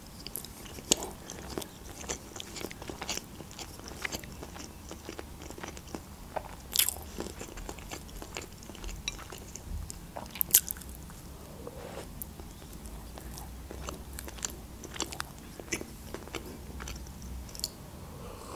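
A person chewing and biting food close to a microphone, with frequent sharp crunches and mouth clicks at irregular intervals.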